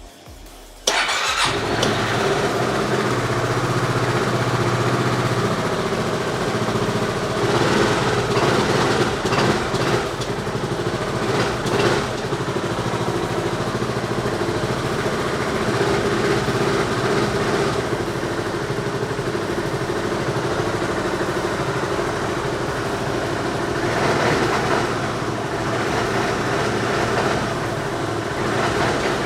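A 2019 Yamaha YP400 XMAX scooter's single-cylinder engine starting about a second in, then idling steadily and swelling briefly a few times.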